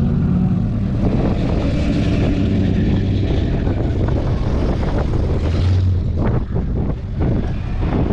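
Engines of classic American cars rumbling steadily as they drive slowly past, with wind buffeting the microphone.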